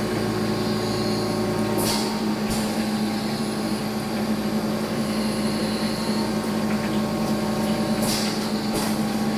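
Steady machine hum with a low drone, with a few faint short scrapes or taps.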